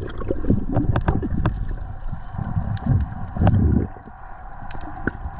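Wind buffeting the microphone in irregular low gusts over a faint steady motor hum on a fishing boat, with scattered knocks and clicks.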